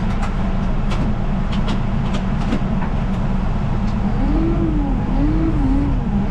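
Vehicle engine running steadily, with several light clicks in the first few seconds. From about four seconds in, a wavering tone rises and falls about once a second.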